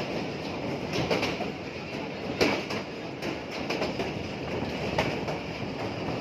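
Passenger train coach running along the track: a steady rumble of wheels on rail with irregular sharp knocks as the wheels cross rail joints, the loudest about two and a half seconds in.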